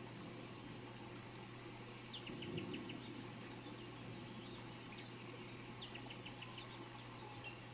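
A small songbird singing a short phrase, one falling note followed by four or five quick chirps, about two seconds in and again about six seconds in, over a steady high hiss.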